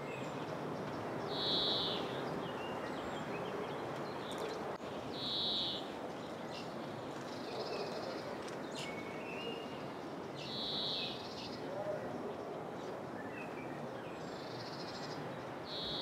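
Outdoor aviary ambience: a steady noise bed, with a bird giving a short, high call about every four to five seconds, four times in all.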